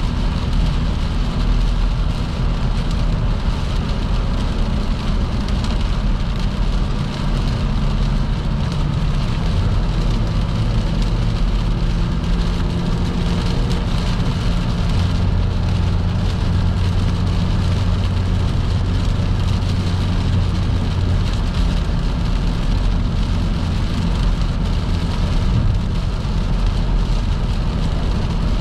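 Car driving at highway speed in heavy rain: a steady hiss of rain and tyres on the wet road over a low, even drone from the car, its pitch shifting slightly about halfway through.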